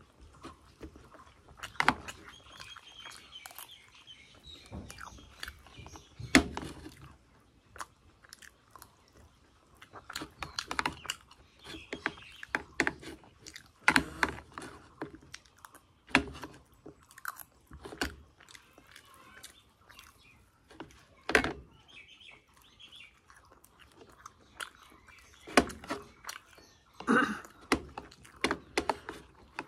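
A person chewing mouthfuls of fried suji (semolina) puri close to the microphone: irregular wet smacks and crunches, with a few sharper clicks.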